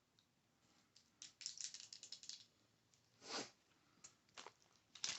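Light fingernail tapping on a Hot Wheels toy and its plastic packaging: a quick run of crisp clicks about a second in, a short swell of rustle around three seconds, then a few single taps.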